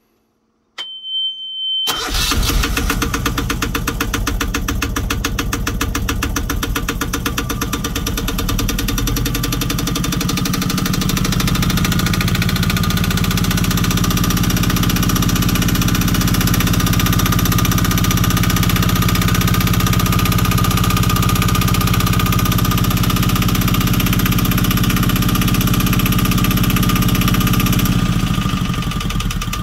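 Jouet 760 sailing yacht's engine cold-started: a high steady beep sounds for about a second, then the engine catches about two seconds in. It runs on steadily with a fast even knock, settling into a lower, even beat after about ten seconds and easing slightly near the end.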